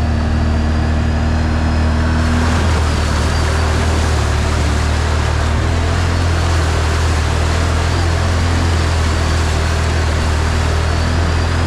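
ATV engine running steadily under way, holding a low, even note. A broad rushing noise joins it about two seconds in.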